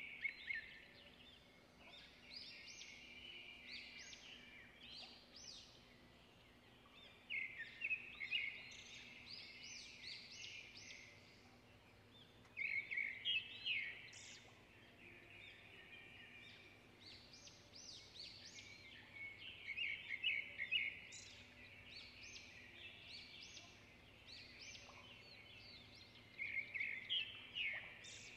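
A songbird singing in short, rapid trilled phrases every few seconds, faint, over a low steady hum.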